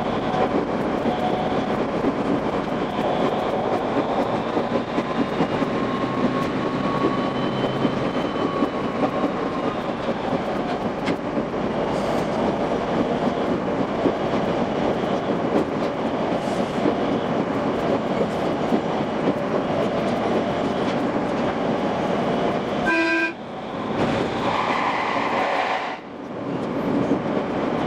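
Train running noise played back fast, a steady dense rush and rattle of wheels on rail. Near the end a brief horn-like tone cuts through, followed by short breaks in the noise.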